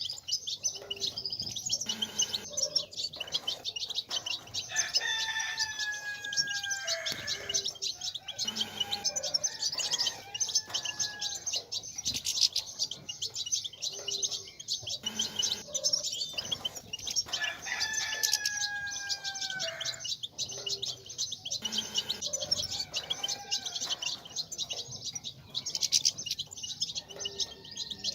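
European goldfinches twittering: a dense, unbroken stream of rapid high chirps and trills. A lower, longer call slides down in pitch twice, about twelve seconds apart.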